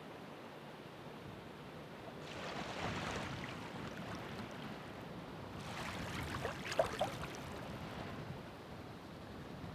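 Ocean waves: a steady wash of surf, with two waves breaking and fizzing, the first about two seconds in and a louder one near the middle.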